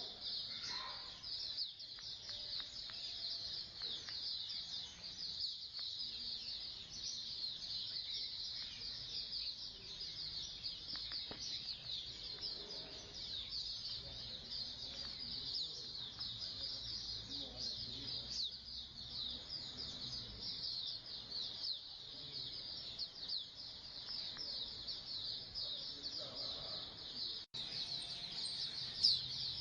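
A colony of white-eyes (pleci) chirping and twittering together: many fast, thin, high calls overlapping without a break, with a brief cut in the sound near the end.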